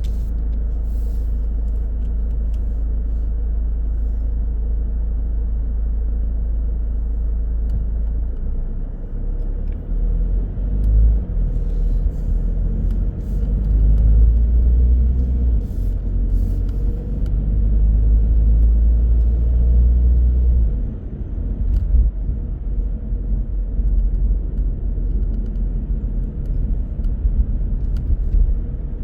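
A car driving on the road, heard as a steady low rumble of engine and tyres. About a third of the way in the rumble turns rougher and swells louder for several seconds, then eases.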